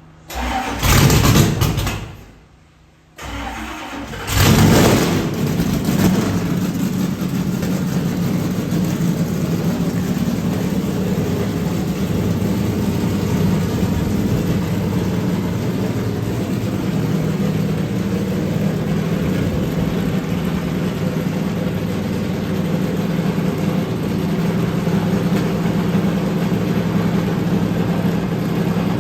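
Race car engine started: it fires with a loud flare about a second in and dies out, is cranked again and catches about four seconds in with a rev, then settles into a steady idle.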